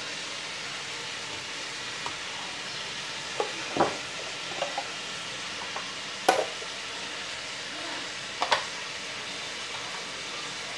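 Chicken pieces frying in oil and sauce in a nonstick wok, a steady sizzling hiss. A few sharp knocks sound over it, the loudest about six seconds in and another near eight and a half seconds.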